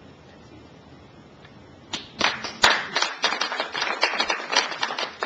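Quiet room tone, then about two seconds in an audience breaks into applause, many hands clapping.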